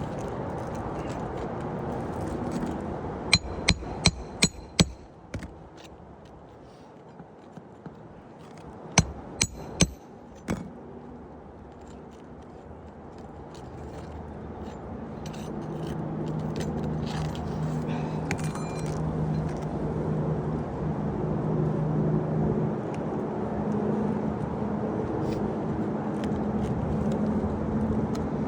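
Hammer driving roofing nails into shingles: two runs of sharp metallic strikes, five in quick succession a few seconds in and four more about ten seconds in. A steady vehicle engine hum underneath grows louder in the second half.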